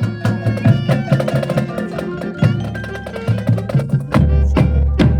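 Marching band playing: drums strike a quick rhythm over low brass notes, with two heavy drum hits near the end over a low held note.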